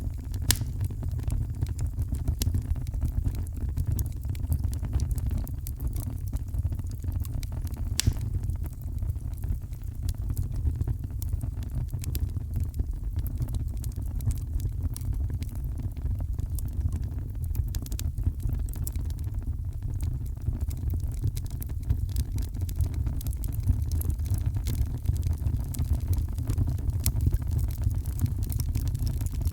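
Heavy rain as a steady, deep rumble with a fainter hiss above it, dotted throughout with scattered sharp crackles and pops from a wood fire in a fireplace.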